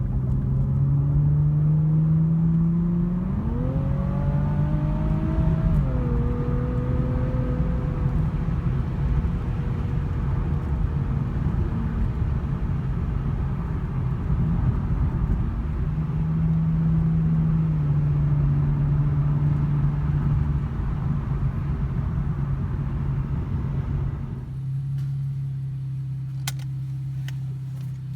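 The 2017 Infiniti Q60 Red Sport 400's 3.0-litre twin-turbo V6 running through a NISMO sport exhaust with no mufflers, as the car is driven. The pitch climbs under acceleration a few seconds in, drops suddenly at a gear change, then holds steady with road noise. Near the end the road noise falls away, leaving a steady lower engine note.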